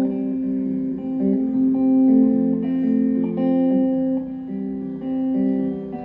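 Acoustic guitar playing an instrumental folk passage, notes ringing and changing about every half second, with no singing.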